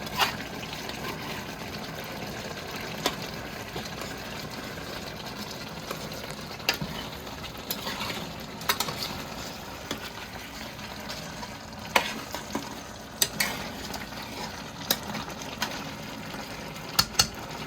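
Food sizzling steadily in a pot on the stovetop, with a utensil clinking sharply against the pot about ten times as it is stirred.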